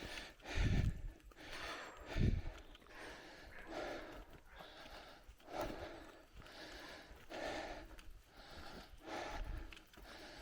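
A cyclist breathing hard in a steady rhythm, a breath about every three-quarters of a second. A few low thumps come in the first couple of seconds.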